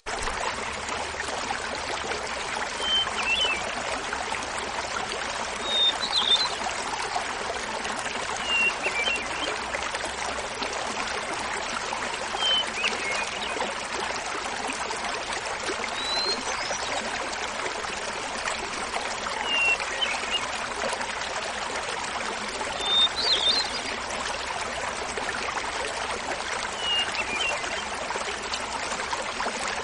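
Small mountain waterfall babbling steadily. Over it a hermit thrush sings short, flute-like phrases, one every three to four seconds.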